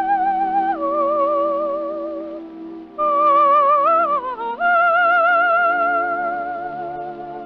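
Operatic soprano singing wordless, bird-like vocalise over a sustained orchestral chord. She holds long high notes with wide vibrato, breaks into a wavering, trilling phrase about three seconds in, drops, then holds a long note that fades toward the end.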